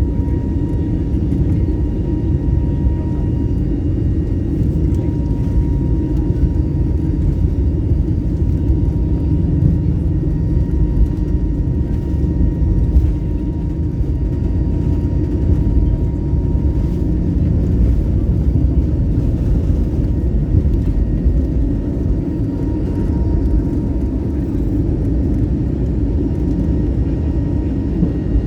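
Steady rumble of engines and airflow inside a passenger airliner's cabin in flight, with a few faint steady tones above it.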